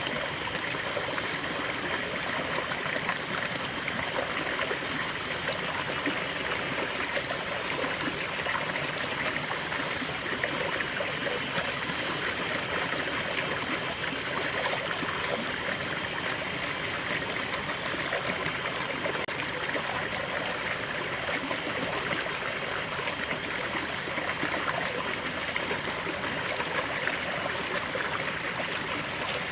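Water of a small forest waterfall and stream flowing and splashing steadily, an even rushing with trickling over it.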